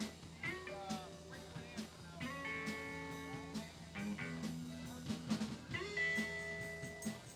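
Live blues band playing: electric guitar holding and bending long notes over bass and a steady drum beat.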